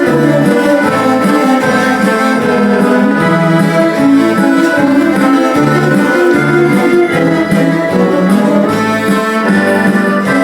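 A cello ensemble playing a melodic piece in held, overlapping chords.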